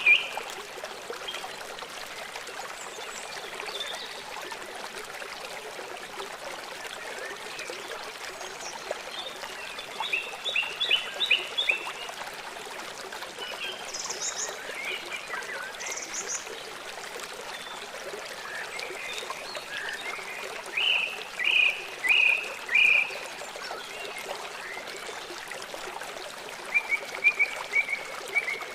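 Small songbirds chirping in short runs of quick repeated notes, with pauses between runs, over the steady rush of running stream water.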